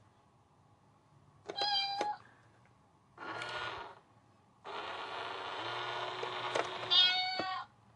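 Domestic cat meowing three times: a short meow about a second and a half in, another about three seconds in, and a long drawn-out meow near the end.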